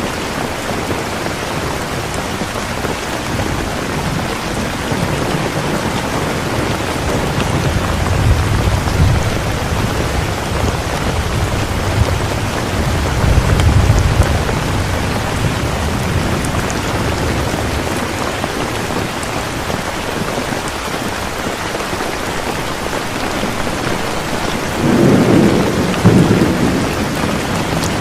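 Steady heavy rain falling, with low rolls of thunder rumbling up several times; the loudest roll comes near the end.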